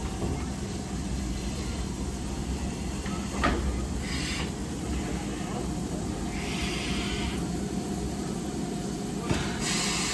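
Steam locomotive blowing off steam: a short hiss about six seconds in, then a louder, steady hiss beginning near the end, over a low steady rumble with a few knocks.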